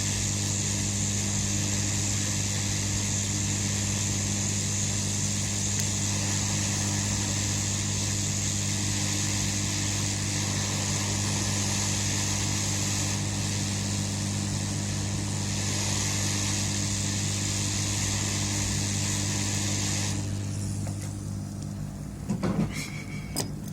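A mains-powered machine running with a steady low hum and a high hiss, switched off about twenty seconds in. A couple of short clicks follow near the end.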